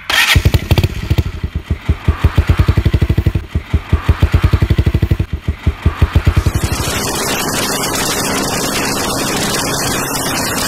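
Motorcycle engine running at low revs with a fast, even pulsing exhaust beat. About six and a half seconds in, the beat gives way to a steady rush of wind noise as the bike rides at speed.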